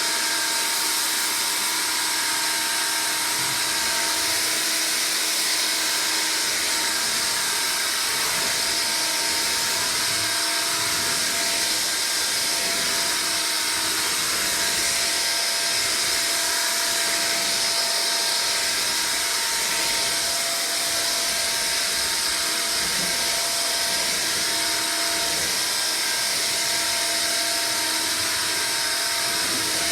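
Hoover Air Cordless Lift stick vacuum running steadily on straight suction with the brush roll off, a constant motor whine over a strong airflow hiss, as it vacuums up dry rice from a hard floor.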